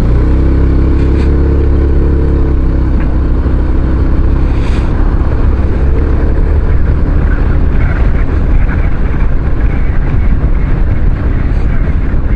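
Kymco Xciting 500 maxi-scooter engine running at steady speed on the road, with wind noise over the microphone.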